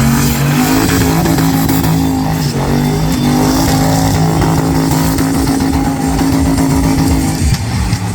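Twin-turbo LS1 V8 in a Toyota Starlet burnout car, held at high, fairly steady revs over the hiss of spinning, smoking tyres. The engine note drops away near the end.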